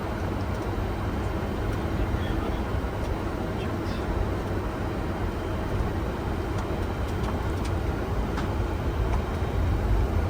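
Steady cockpit noise of a Boeing 747-400 taxiing after landing: a low rumble with a hiss of airflow and a few faint clicks.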